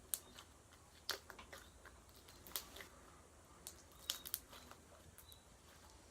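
Homemade detergent slime being worked by hand, giving scattered sharp little clicks and pops, with a cluster of them about four seconds in.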